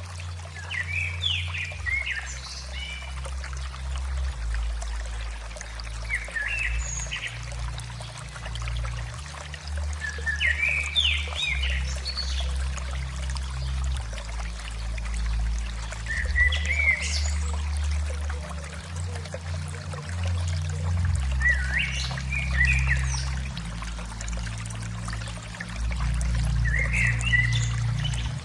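Calm background music track: low sustained notes changing every second or two under a steady water-like hiss, with short clusters of bird chirps returning about every five seconds.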